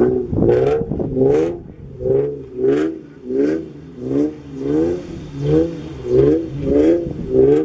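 Infiniti G37x sedan's 3.7-litre V6 through an Ark Grip aftermarket exhaust, revving up and dropping back over and over, about once every 0.7 seconds.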